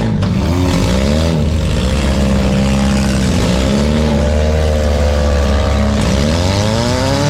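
Several four-cylinder demolition derby car engines revving hard at once, their pitches rising and falling and overlapping.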